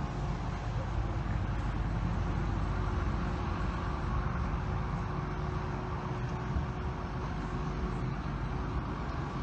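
Excavator engine running steadily, a low, even rumble with a faint steady hum.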